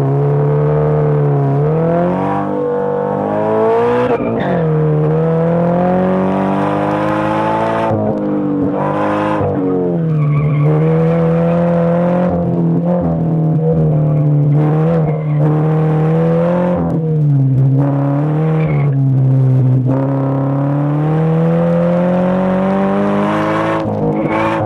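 Car engine working hard through an autocross course, its note climbing under acceleration and dropping back repeatedly, with sudden falls in pitch at the shifts or lifts.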